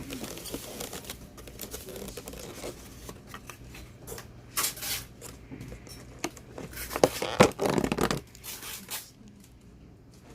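Rustling and tearing noises of things being handled, irregular, with louder bursts about four and a half seconds in and again around seven to eight seconds.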